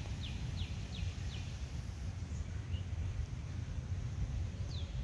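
A bird calling a quick run of short, descending chirps in the first second and a half, with one more chirp near the end, over a steady low rumble.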